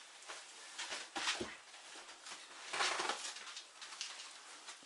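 Rustling and soft thumps of plastic-wrapped mineral-wool insulation packs being handled and stacked, loudest about a second in and again near three seconds.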